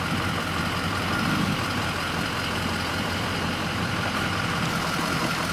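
A vehicle's engine running steadily, heard from inside the vehicle.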